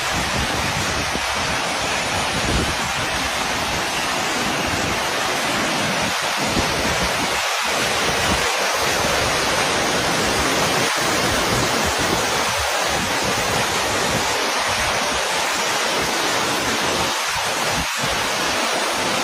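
Floodwater rushing through a broken dam: a loud, steady rushing of water with no break.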